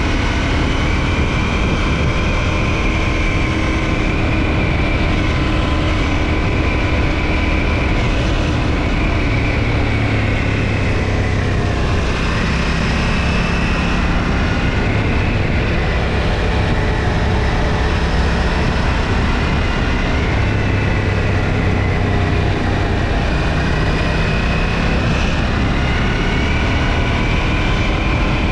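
KTM 790 Duke's parallel-twin engine running under way through its stock exhaust, over steady wind and road noise. The engine note dips and climbs again around the middle and once more near the end.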